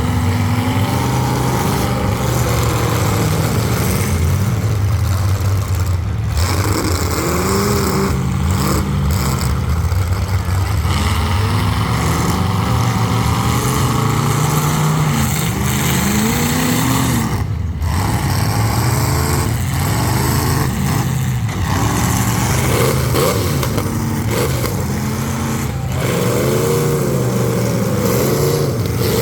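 Several full-size demolition derby cars' V8 engines revving, their pitch rising and falling over and over as the cars accelerate and back up around the arena, with occasional impacts.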